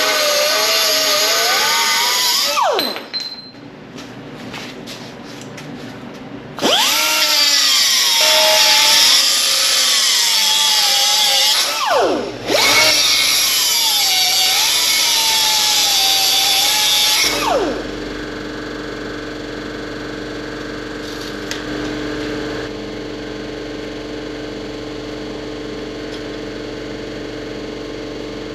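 Power saw cutting steel bar stock in three passes, its motor whine wavering under load and winding down in pitch each time it is released. A quieter steady machine hum follows for the last third.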